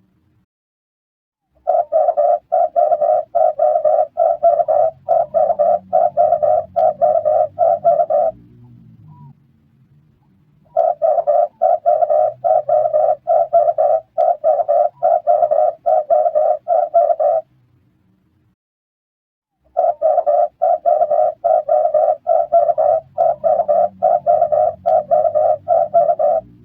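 Red turtle dove calling: three long bouts of rapidly repeated coos, about four notes a second, each bout lasting some seven seconds with a pause of two or three seconds between them.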